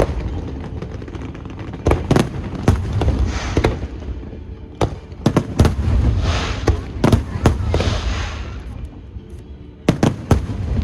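Aerial fireworks shells bursting: a run of sharp bangs in irregular clusters, with crackling between them over a low rumble. The bangs thin out in the later part, and two more come near the end.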